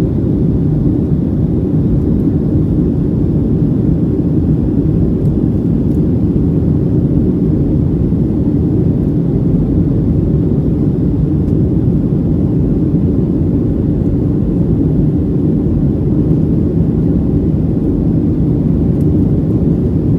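Boeing 757-200 jet engines at high thrust during takeoff and climb, heard inside the economy cabin as a steady, loud, deep rumble.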